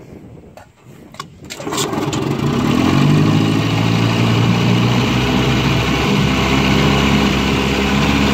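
1953 Johnson QD-14 10 hp two-cylinder two-stroke outboard being started: a few short clicks, then the engine catches about a second and a half in and settles into a steady, loud idle. The motor is running as found, untuned.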